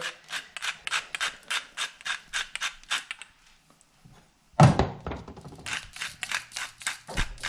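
Seasoning being shaken or ground from a spice container over a pot of chili in quick rasping strokes, about five a second, that stop briefly and then resume. A single heavy thump comes about four and a half seconds in.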